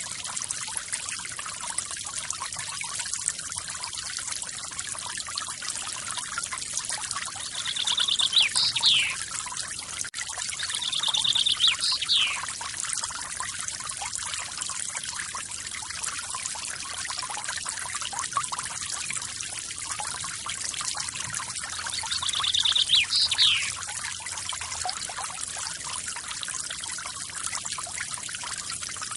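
Small forest waterfall pouring and splashing steadily, with a bird calling three times over it. Each call is a quick trill ending in a sharp rising and falling sweep.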